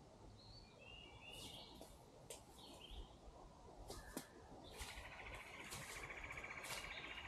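Quiet outdoor ambience with birds: several short chirps in the first couple of seconds, then a rapid, even trill starting about five seconds in and running on. A few faint crackles are scattered through.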